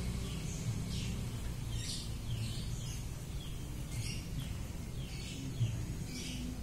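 Small birds chirping, short falling chirps about twice a second, over a steady low rumble.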